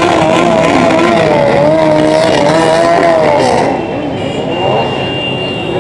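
Motorcycle engines running as a convoy of bikes rides past, their pitch rising and falling with the throttle. The sound is loud for the first three and a half seconds or so, then drops away.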